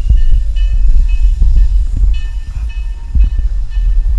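Narrow-gauge railroad car rolling slowly along the track: a heavy rumble with irregular clanks and knocks from the wheels and running gear. Thin high squeals come and go.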